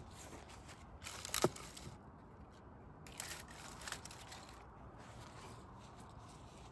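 Wood fire of burning logs crackling, with one sharp loud pop about a second and a half in and a cluster of smaller cracks around three to four seconds.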